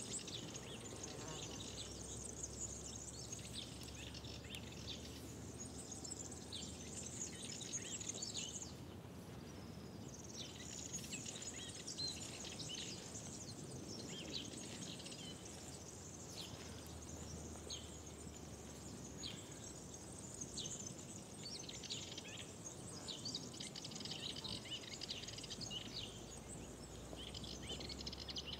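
Several songbirds singing and chirping almost without pause, with a short lull about nine seconds in, over a low steady rumble of ambient noise.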